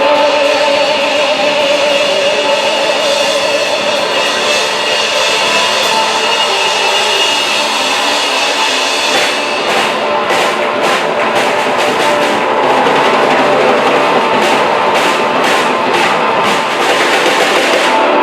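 Live rock band playing an instrumental passage: sustained distorted guitar and drums, with cymbal hits coming thick and fast from about halfway in.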